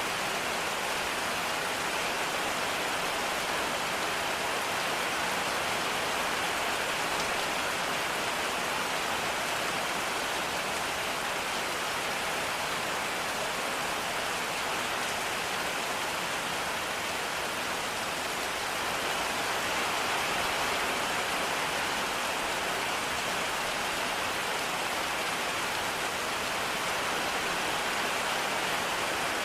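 Steady rain, an even hiss that holds without change.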